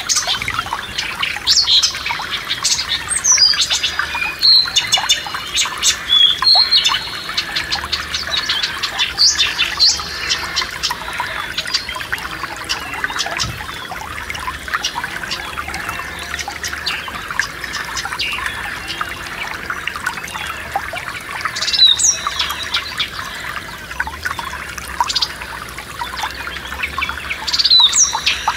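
A forest stream trickling steadily, with songbirds singing over it in quick chirps and sweeping notes. The birdsong comes in a burst over the first several seconds, then again twice near the end.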